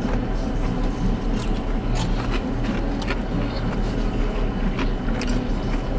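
Steady low hum of a parked car's idling engine and air-conditioning blower, heard inside the cabin, with a few light clicks.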